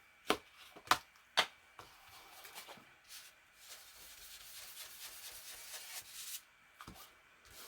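Craft materials handled on a work table: three sharp taps or clicks in quick succession, then soft paper rustling and rubbing.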